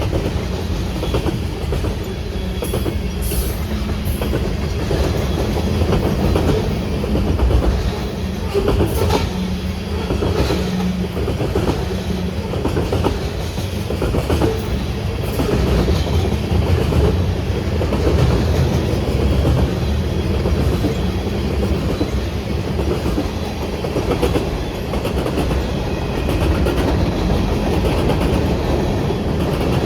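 A train rolling past on the tracks: a steady, loud rumble of wheels on rail with scattered clicks.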